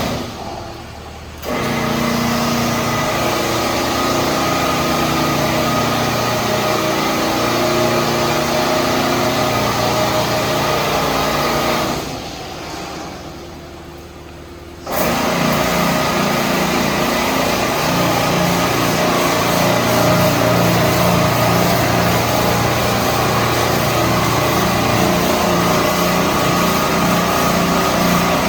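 PDQ ProTouch Tandem touchless car wash running, its high-pressure pump humming steadily under a hiss of spray. It cuts out briefly right at the start and again for about three seconds around the middle as the wash changes cycle, then starts again.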